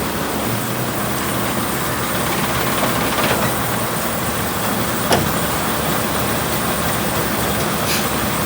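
Truck running with steady engine and road noise, and a single sharp knock about five seconds in.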